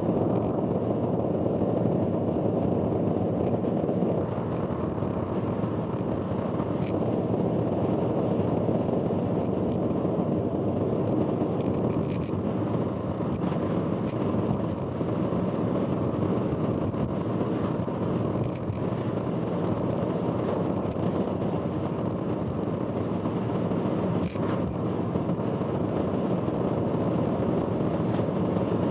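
Steady road and engine noise of a car cruising on an expressway, heard from inside the car, with a few faint clicks scattered through it.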